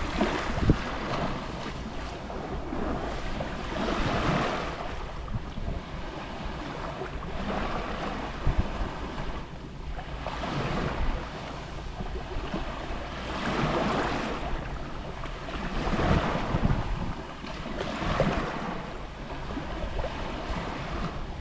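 Gentle Mediterranean waves lapping on the shore, a wash of water swelling and falling back every few seconds, with wind rumbling on the microphone.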